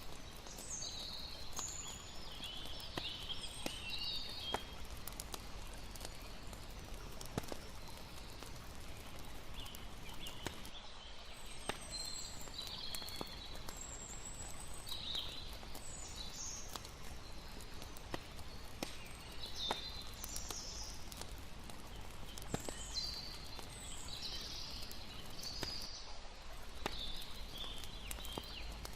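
Layered night ambience: a campfire crackling with scattered sharp pops over a steady wash of water, with irregular bursts of high chirping every few seconds.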